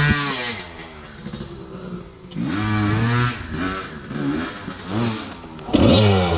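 Enduro dirt bike engine revving in short throttle blips: the revs drop from a high steady pitch at the start, rise and fall several times, and climb sharply and loudly near the end.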